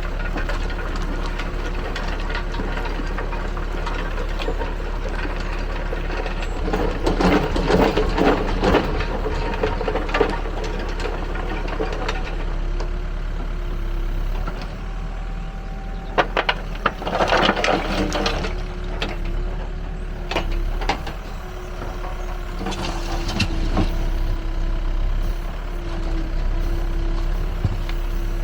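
Backhoe loader's diesel engine running steadily while working the hydraulics, with several louder passages of clattering and rattling.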